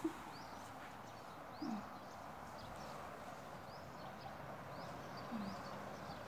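Faint, scattered bird chirps, about six short high calls, over a steady soft background hiss. Three brief low falling sounds come near the start, about two seconds in and near the end.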